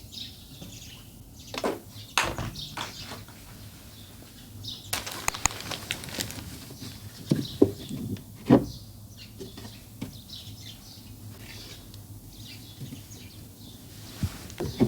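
Household handling sounds: scattered clicks and light knocks, with a stretch of rustling about five seconds in and two sharper knocks a little later.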